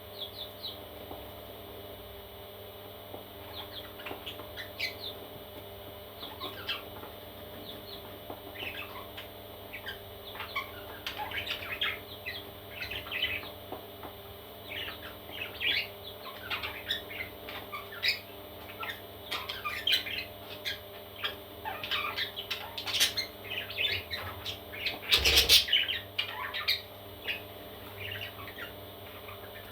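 Parrot chicks chirping and squawking in many short high calls, growing busier about ten seconds in. There is one loud harsh burst about 25 seconds in.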